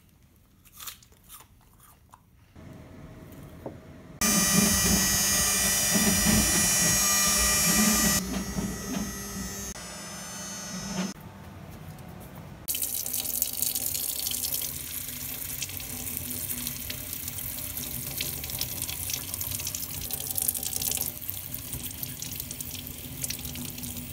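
Water running from a sink faucet, with a few clicks before it and a louder stretch of rushing noise from about four to eight seconds in. From about thirteen seconds on the flow runs steadily.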